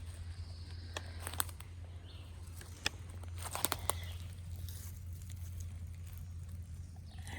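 Footsteps on wet, slick ground: scattered crunches and sharp snaps, clustered about a second in and again around three to four seconds in, over a steady low hum.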